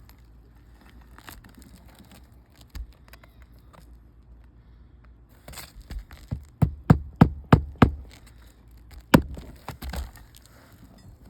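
Hammer driving nails through roofing shingles: a quick run of about five strikes a few seconds in, then one more hard strike and a few lighter taps, with rustling of the shingles being lifted in between.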